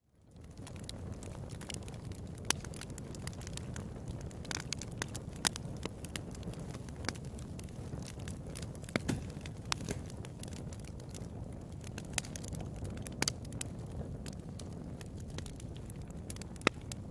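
Wood fire in a fireplace crackling: sharp pops at irregular moments over a steady low rush of burning.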